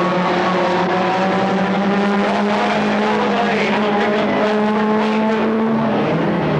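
Several stock car engines racing at once, a loud steady drone of overlapping engine notes whose pitches shift slowly as the cars go around the track.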